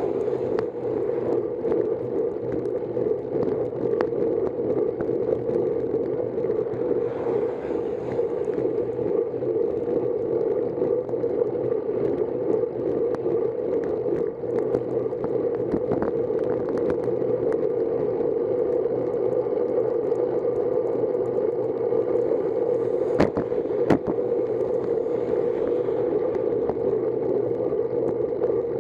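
Steady rushing wind and road noise from a moving bicycle, heard on the rider's camera microphone, with two sharp clicks close together about three-quarters of the way through.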